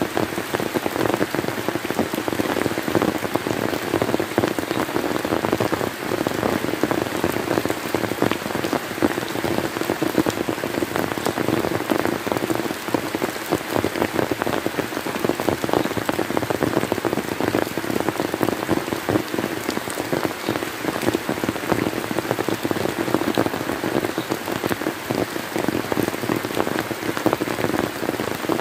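Steady rain, a dense patter of many drops hitting a surface, unchanging throughout.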